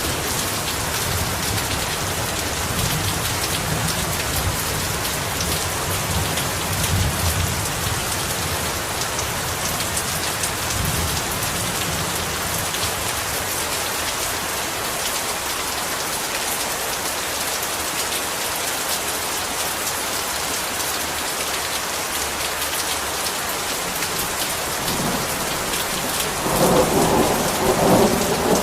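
Heavy rain falling steadily as an even hiss. Low thunder rumbles during the first half, and a louder roll of thunder swells about two seconds before the end.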